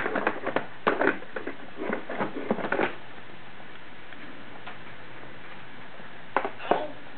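Irregular light clicks and taps, a quick cluster in the first three seconds and two more about six and a half seconds in, over a steady hiss.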